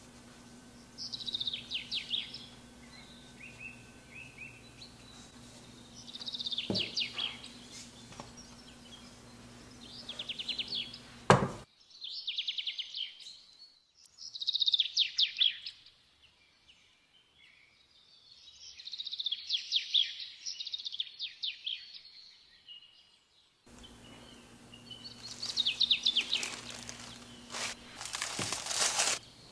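A songbird chirping and trilling in short repeated phrases, with brief pauses between them. There is a single sharp click a little past the middle.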